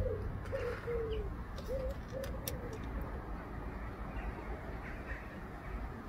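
A bird calling: a series of about six short, low notes in the first three seconds, each one bending up or down. A steady low rumble runs underneath.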